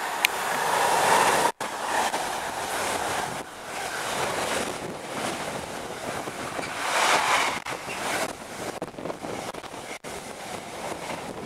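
Intermodal container train passing close at speed behind a Freightliner Class 70 diesel locomotive: a steady rush of wheel and air noise from the container wagons, with wind buffeting the microphone. The sound cuts out for an instant twice.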